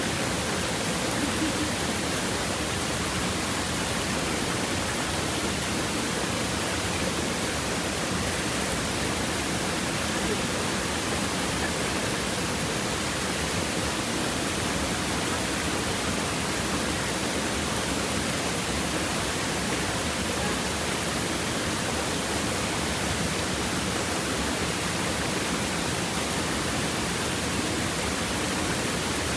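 Stream water babbling steadily over and between river stones, an unbroken rushing with no separate splashes.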